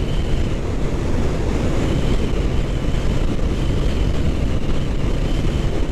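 Kawasaki Ninja 650's parallel-twin engine running steadily while the motorcycle is ridden along the road.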